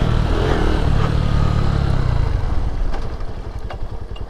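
Lifan KP Mini 150 pit bike's single-cylinder engine coming off the throttle after a rev and running at low revs, its separate exhaust pulses audible near the end, with a little clatter from the bike.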